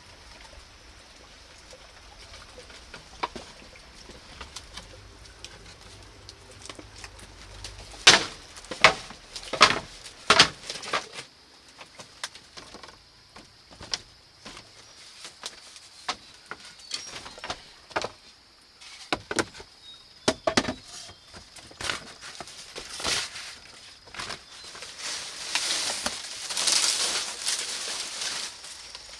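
A series of sharp knocks and taps, loudest in a cluster about eight to ten seconds in, with scattered lighter clicks and a stretch of rustling or scraping near the end. A faint steady high tone runs underneath.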